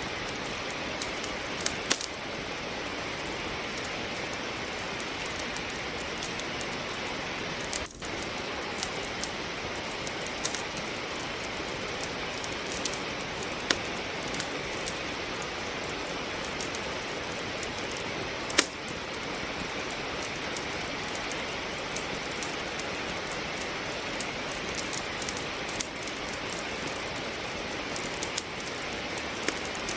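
Steady rain falling, with a wood fire crackling: scattered sharp snaps and pops from the burning logs, a few louder ones, the loudest about two-thirds of the way through.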